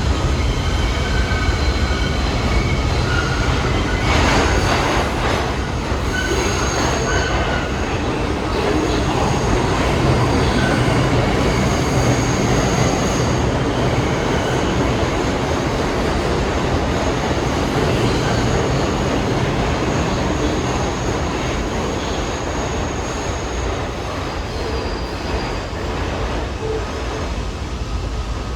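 New York City subway train running on the track at the station, a steady rumble and clatter of wheels on rail with thin, high wheel squeals coming and going. There is a louder burst of clatter about four seconds in, and the noise eases slightly near the end.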